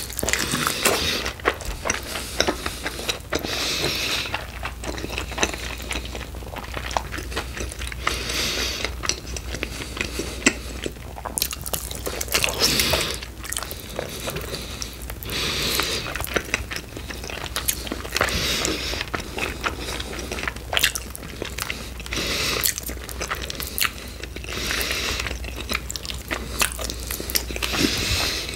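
Close-miked chewing and biting of chicken wings, with many sharp mouth clicks coming in clusters every second or two.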